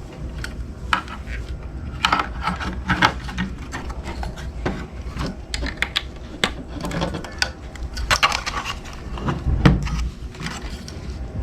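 Objects being handled: irregular clicks, knocks and rubbing scrapes, with a sharper knock near the end, over a steady low rumble.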